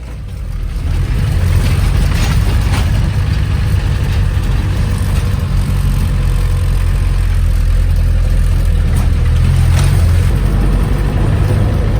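Land Rover Santana Series II engine running with a steady low rumble, getting louder over the first second or so and then holding even.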